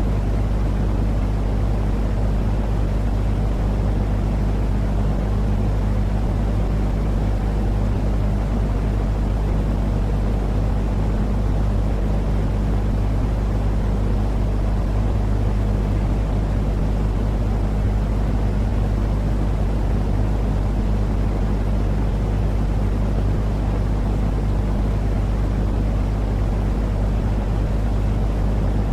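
Continuous low droning noise for calming a baby to sleep: an even rush heaviest in the bass, with a steady motor-like hum underneath, unchanging throughout.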